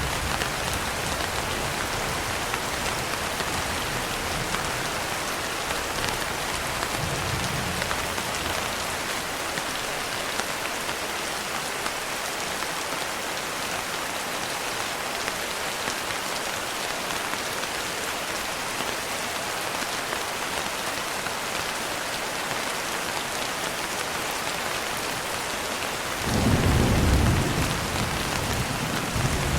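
Steady rain pattering on a window, with a low roll of thunder near the end that is the loudest sound.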